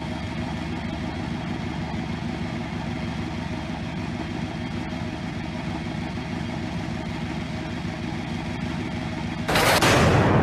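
Car engine idling steadily with an even low pulse. Near the end a sudden loud burst of noise cuts in and fades away.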